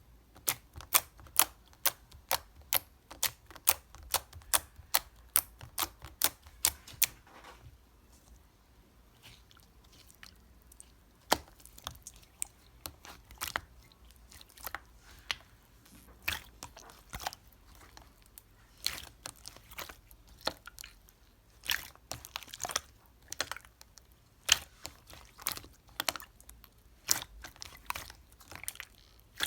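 Clear, transparent slime being pressed and worked by hand, giving sharp wet clicks and pops: a fast, even run of about two or three a second for the first seven seconds, then looser and more irregular, growing busier again in the second half.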